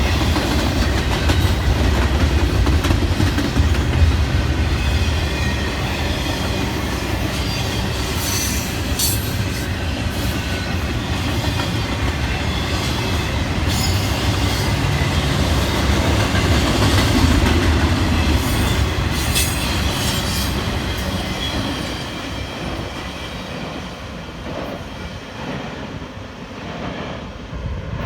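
A train rolling past close by: a steady heavy rumble of railroad cars with wheel clacks and brief wheel squeals, fading away over the last several seconds.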